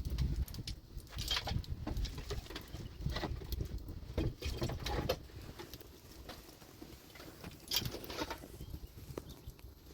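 Irregular clicks, knocks and scrapes from objects being handled, over a low rumble, thinning out about halfway through.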